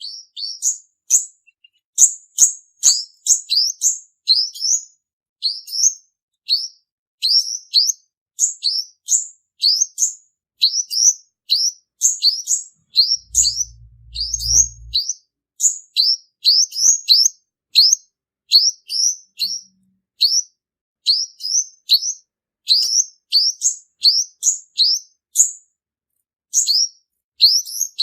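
Male olive-backed sunbird singing: a fast run of short, high, sharp chirps and trills, repeated almost without pause. A brief low rumble about halfway through.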